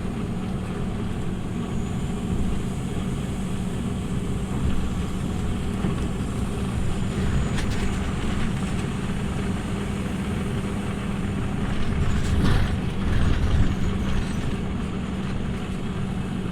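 Scania OmniLink city bus driving, heard from inside the cabin: a steady engine drone over road noise. The noise swells louder and rougher for a couple of seconds about twelve seconds in.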